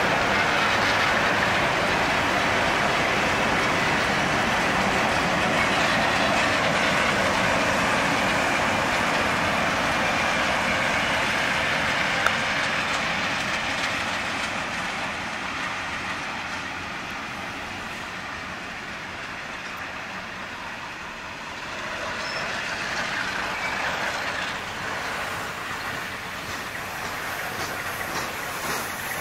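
A diesel-hauled grain train passing close by. The last of its locomotives (GM-class bulldog-nose and 44-class diesels) run past first, and their noise eases about halfway through. A rake of grain hopper wagons then rolls by on the rails.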